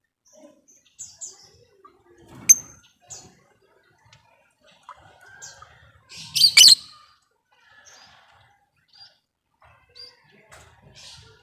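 Lovebirds chirping: scattered short, high calls with gaps between them, and a loud burst of rapid chirps about six and a half seconds in.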